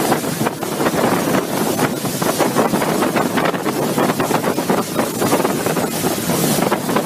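Floodwater rushing, a loud, steady, churning water noise.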